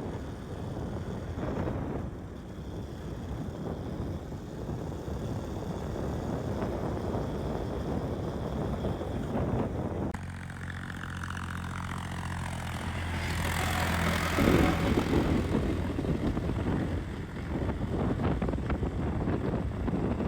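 KTM 200 Duke single-cylinder motorcycle riding, its engine under wind rush on the microphone. About halfway through the wind drops and the engine's steady hum comes through for a few seconds, followed by a louder rush of noise.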